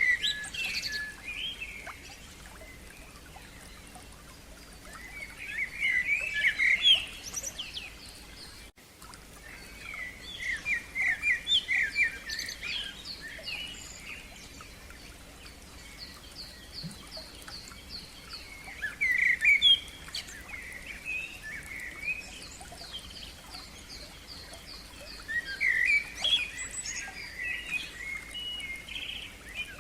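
A songbird singing in separate phrases a few seconds apart, some of them with fast runs of repeated notes, over a faint steady background.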